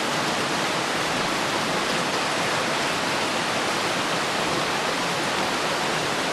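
Floodwater rushing steadily during a flood, an even hiss with no breaks.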